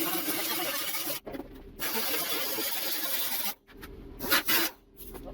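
A tool cutting into sheet-steel fender metal to free a patch piece: a steady, harsh noise that breaks off suddenly about a second in and again past three seconds in.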